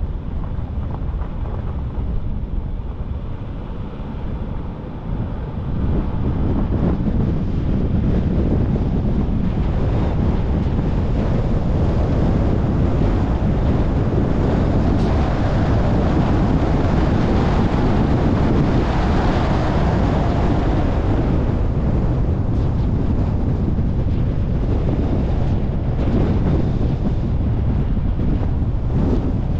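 Steady rumble of wind buffeting the microphone and road noise from a car driving, growing louder about six seconds in.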